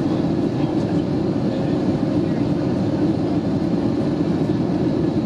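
Steady cabin rumble inside an Airbus A320neo airliner: engine and airflow noise heard from a passenger seat, loud and even throughout.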